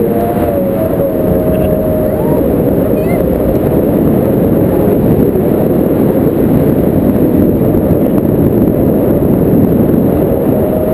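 A motorboat engine with wind on the microphone, making a loud, steady low rumble, with a few faint wavering tones near the start and end.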